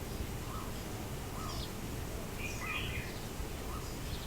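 Scattered short bird calls and chirps, some high and some lower, over a steady outdoor background hiss.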